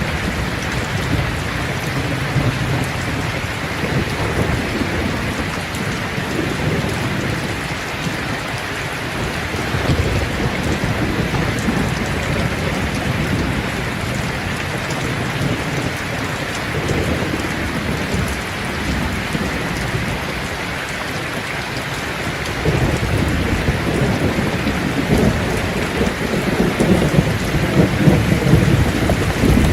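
Steady rain falling, with thunder rumbling low underneath; the rumble swells louder over the last several seconds.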